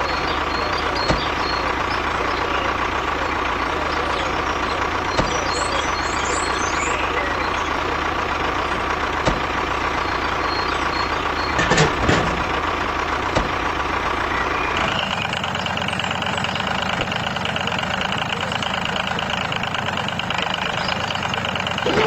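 Steady running of a small motor driving a DIY mini tractor. About fifteen seconds in its sound shifts to a higher tone, and there are a few short knocks around twelve seconds in.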